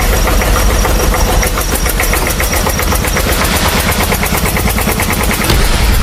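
Small engine of a DIY mini tractor running steadily, with a rapid, even chugging beat.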